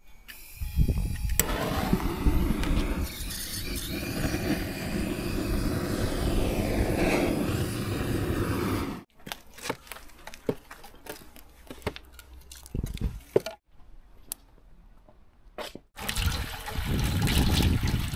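Cooking oil pouring steadily in a stream from a large 18-litre can into a cast-iron cauldron. The pour cuts off about nine seconds in, leaving scattered light clicks and knocks, and the pouring is heard again near the end.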